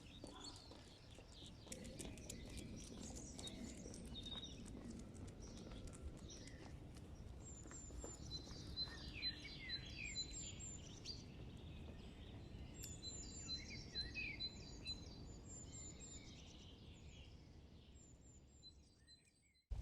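Wild birds singing: quick chirps and short rapid runs of high repeated notes, over a faint steady background hiss. The sound fades out near the end.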